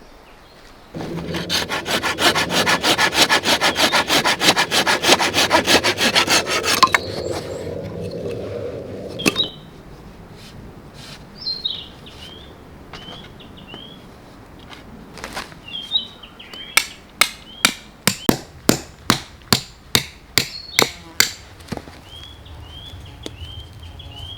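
Hand saw cutting through wood, in quick rapid strokes for about six seconds before the cut slows and stops. Birds chirp, then a run of about a dozen sharp knocks on wood, roughly two a second.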